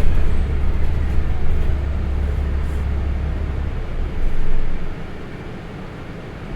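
City bus engine and road noise heard from inside the cabin: a steady low rumble that eases off and turns quieter about five seconds in.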